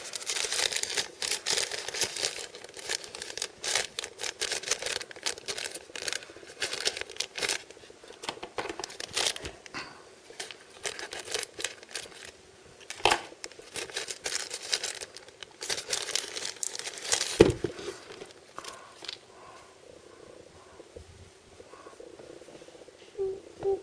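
Blind-bag packaging being crinkled and torn open by hand: dense crackling for the first several seconds, then shorter bursts of crinkling. A single sharp knock comes at about 17 seconds, after which the handling is quieter.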